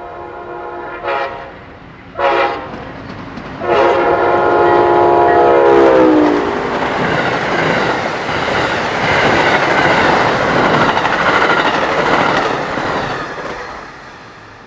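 Amtrak Silver Star passenger train passing close by, its locomotive horn sounding: a blast running into the start, two short blasts, then a long blast whose pitch drops as the locomotive goes past. The rumble and clatter of the passenger cars follows, fading near the end.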